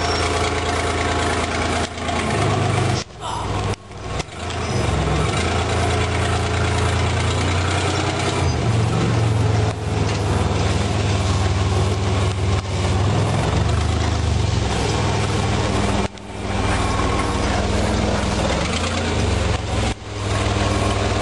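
Chevy Astro's 4.3-litre V6 idling in a cold start after sitting three weeks, a steady low rumble. The level dips sharply for a moment a few times.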